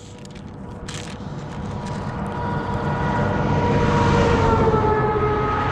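A motor vehicle approaching along the road, its engine and tyre noise growing steadily louder over several seconds and peaking near the end, its tones dropping slightly in pitch as it draws level.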